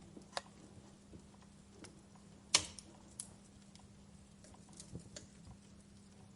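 Wood fire crackling: irregular small pops and snaps, with one loud pop about two and a half seconds in.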